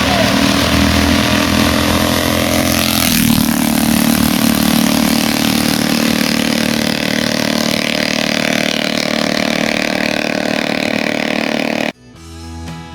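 1937 Rudge race motorcycle's single-cylinder engine running steadily, its pitch shifting once about three seconds in. It cuts off abruptly near the end.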